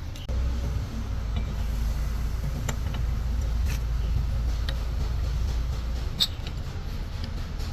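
A steady low rumble from a running motor or engine starts suddenly just after the start, with a few light clicks over it and one sharper clink about six seconds in.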